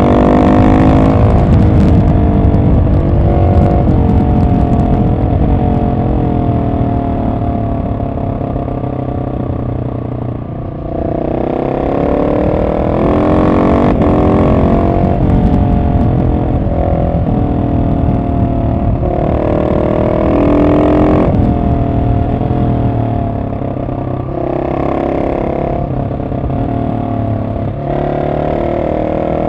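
Husqvarna 701 SM's single-cylinder engine through an aftermarket Arrow exhaust, heard from on the bike as it is ridden. The engine note winds down for the first third. It then picks up sharply on the throttle and rises and falls in pitch several times as the bike accelerates and slows.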